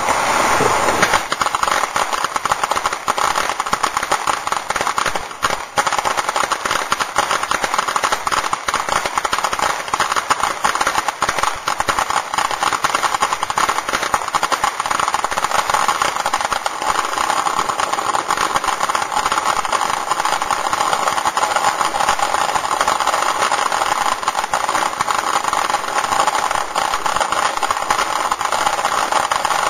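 Consumer fireworks crackling densely and without a break, a rapid stream of small pops.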